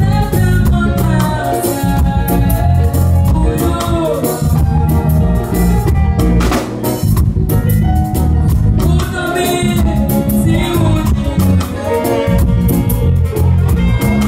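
A live band and singers perform a gospel song, with drum kit, bass and voices singing the melody.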